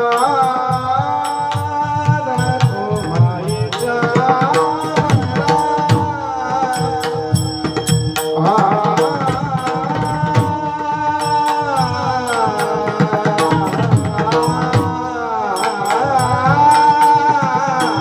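Warkari bhajan music: pakhawaj drumming and sharp, ringing hand-cymbal strokes keep a fast rhythm under a long-held, gliding sung melody line.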